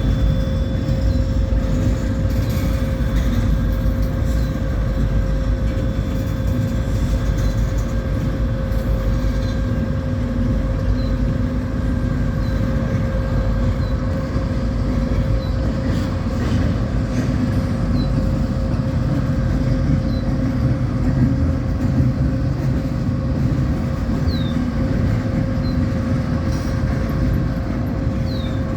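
Train running steadily past or along the track: a continuous rumble with a constant hum and faint, repeated high squeaks.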